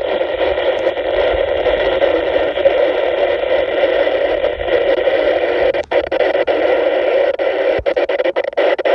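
Static hiss from a VHF FM radio receiver tuned to a weak, distant NOAA Weather Radio signal, a steady rush of noise with no broadcast voice getting through. In the last few seconds it is broken by a string of brief cut-outs as the fading signal flutters.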